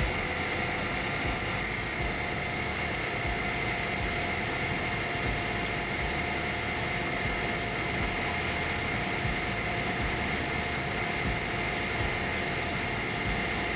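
Heavy machinery engine running steadily under load, with a steady high-pitched whine over it.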